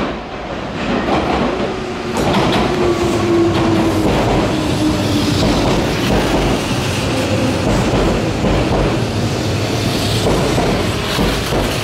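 Electric commuter train running through the station, its wheels clattering steadily over rail joints and points, with a faint, slightly falling whine about three seconds in.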